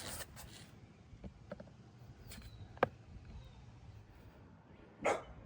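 Faint clicks and scrapes of a screwdriver prying at a plastic clip on a lawnmower's recoil starter housing, with a sharp click near three seconds and a louder knock about five seconds in.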